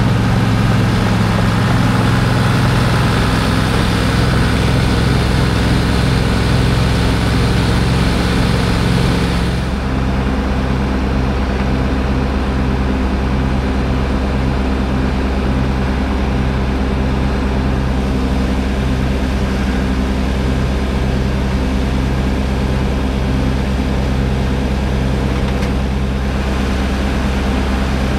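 A heavy diesel engine running steadily. About ten seconds in, a high hiss drops away and the low hum starts to pulse on and off.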